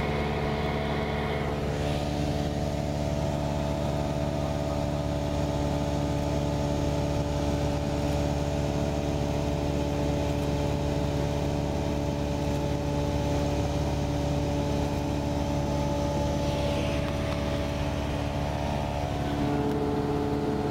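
Cessna 172's four-cylinder piston engine and propeller droning steadily, heard from inside the cabin in cruise, with a slight change in pitch near the end.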